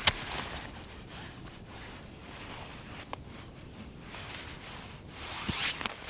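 A zipper being pulled, with nylon fabric and clothing rustling in between. There is a sharp click just after the start, and a longer zipping or rustling swell near the end.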